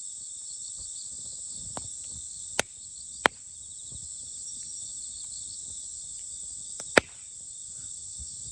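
Burning firewood in a campfire popping and snapping now and then with sharp cracks, the loudest near the end, over a steady chorus of crickets and other autumn insects.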